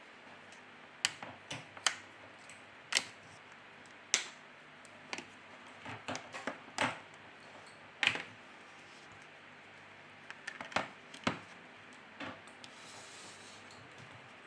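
Irregular sharp plastic clicks and snaps, about a dozen, as a Nokia 3.1's back cover is pried off and its clips release.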